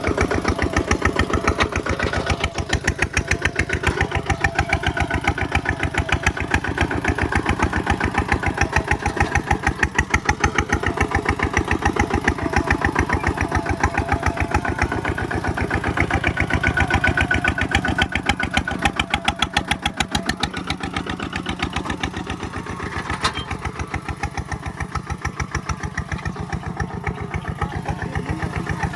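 Kubota single-cylinder diesel engine running steadily with a rapid, even train of firing pulses, a little quieter in the second half.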